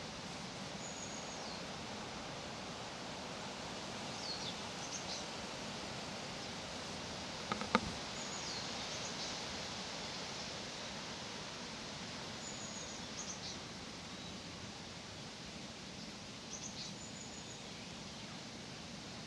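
Leaves rustling in the breeze as a steady hiss, with small birds giving short high chirps every few seconds. A single sharp click about seven and a half seconds in is the loudest sound.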